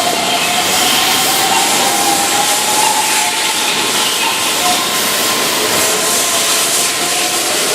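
Keihan Electric Railway electric train running by: a steady loud rush of wheel and rail noise with a strong hiss and a faint wavering whine.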